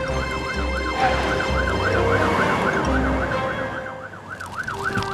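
Cartoon fire truck siren wailing in a fast, even rise and fall, about three cycles a second, over background music.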